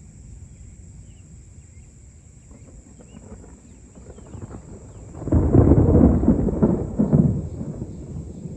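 Thunder about five seconds in: a sudden loud crash that rolls in several peaks for about three seconds, then fades, over a steady low background rumble.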